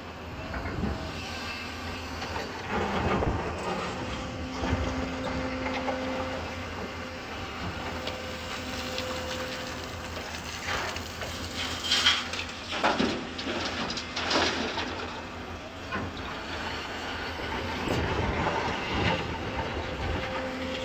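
Hyundai 220 excavator working: its diesel engine runs steadily and a whine comes and goes, with several clanks and knocks, the loudest about twelve seconds in.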